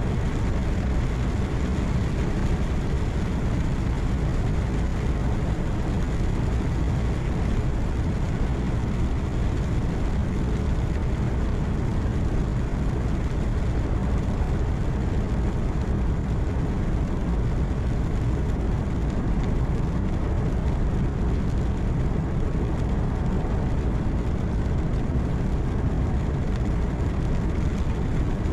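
Truck engine and tyre-on-road noise heard from inside the cab while driving at a steady speed: a deep, unchanging drone with no distinct events.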